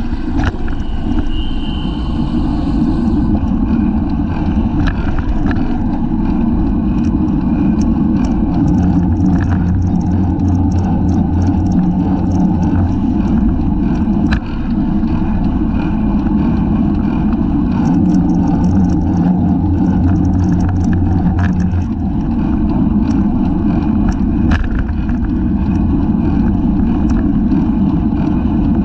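Wind rushing over the microphone of a camera mounted on a racing bicycle, giving a loud, steady low rumble at race speed. Scattered light clicks and rattles from the bike and road come through it.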